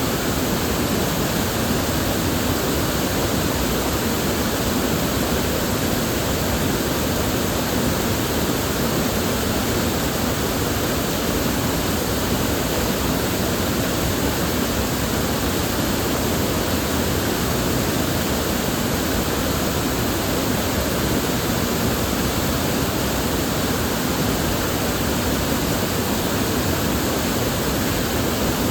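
River water flowing, a steady even rushing with no other sounds standing out.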